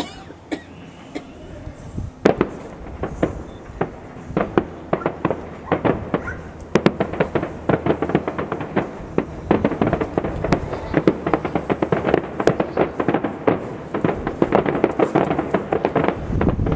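Fireworks display: a few separate bangs at first, then from about four seconds in a dense, rapid crackle of many small reports that thickens toward the end.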